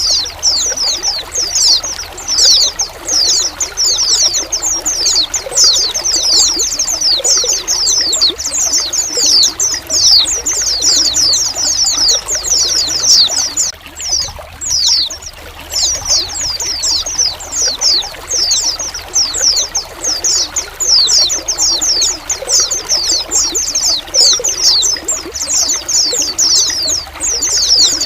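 A flock of white-eyes (pleci) calling together in a constant stream of quick, high, down-slurred chirps, thinning briefly about halfway, over a steady trickle of running water.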